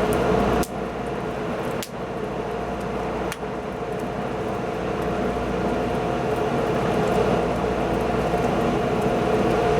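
Wood fire burning with a steady rushing sound and scattered faint crackles and pops.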